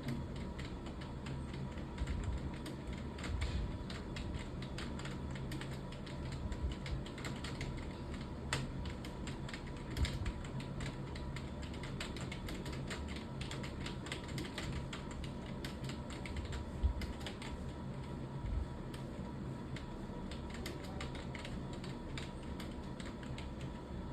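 Computer keyboard being typed on continuously at a quick, uneven pace, many key clicks a second, over a low steady hum.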